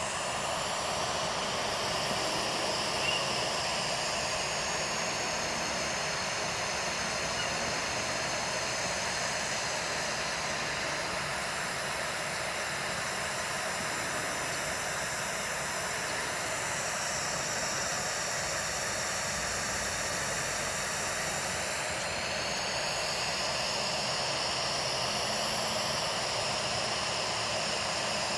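Steady rushing noise with a slow, wavering sweep in its upper range and no breaks.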